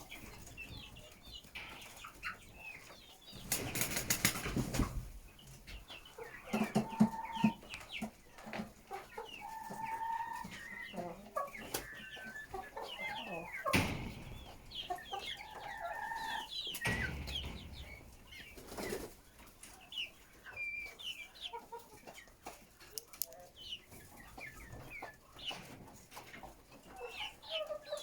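A flock of chickens clucking and calling, with many short overlapping calls and a few longer held calls. There are two louder noisy, rustling bursts, one a few seconds in and one just past the middle.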